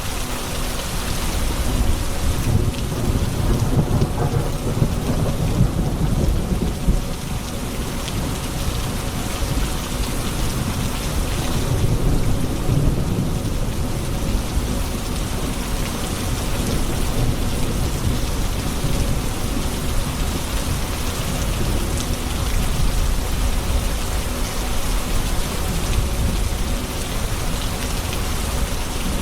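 Steady rain falling, with low rolling thunder rumbling underneath. The thunder swells twice, a few seconds in and again about twelve seconds in.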